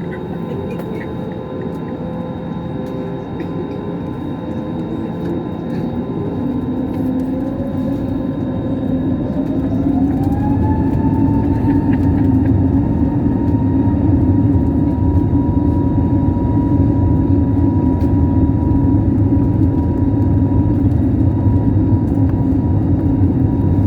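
Airbus A320neo jet engines spooling up to takeoff thrust: a whine rises in pitch about seven to ten seconds in, then holds steady over a louder rumble that keeps building.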